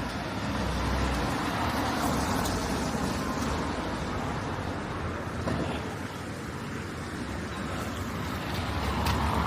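Road traffic on a town street: the steady noise of cars driving past, swelling as one passes about a second in and another near the end.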